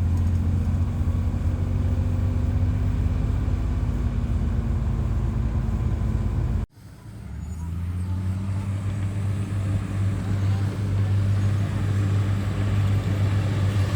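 Heavy diesel engine of earthmoving machinery running steadily with a deep hum. The sound cuts out abruptly about halfway through and comes back up over a second or two.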